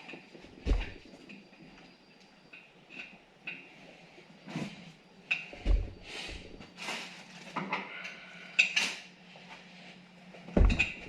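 Irregular metal clinks, knocks and short scrapes of tools and the wheel being handled while a motorcycle tire is worked onto a spoked rim.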